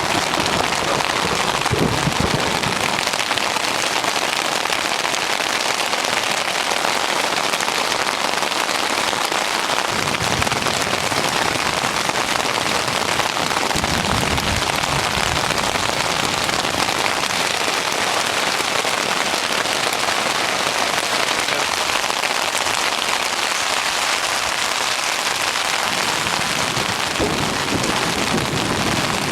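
Steady heavy rain falling, a constant hiss throughout, with a few low rumbles of thunder rising under it.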